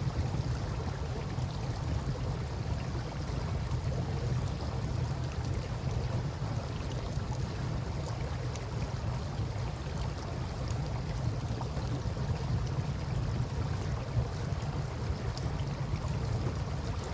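River water flowing in a steady low rush, with a campfire crackling in small scattered pops.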